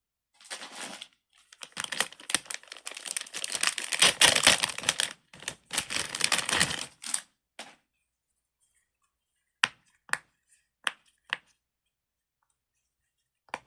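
A plastic fidget toy being handled: a dense run of rapid clicking and crackling for about seven seconds, then a few separate sharp clicks.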